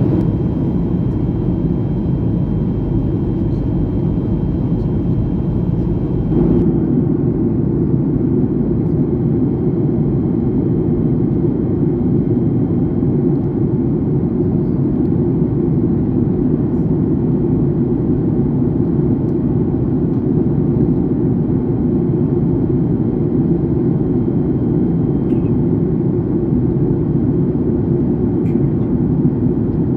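Steady cabin noise of an airliner in flight: a deep, even rush of engine and airflow noise. A faint high tone drops out about six seconds in.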